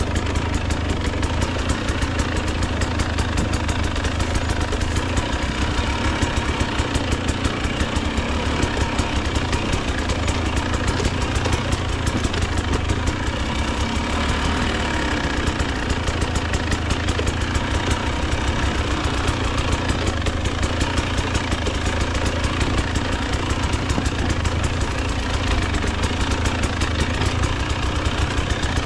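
Husqvarna TE 300 two-stroke dirt bike engine running at low, fairly steady revs, its firing pulses coming in a rapid even stream.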